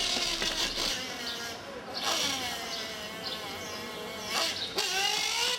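A small motorbike engine buzzing, its pitch rising and falling as it revs up and down.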